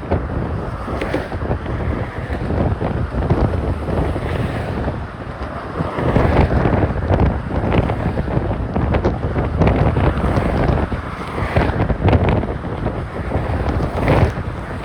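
Strong wind buffeting a cell phone's microphone in rough gusts, growing louder from about six seconds in.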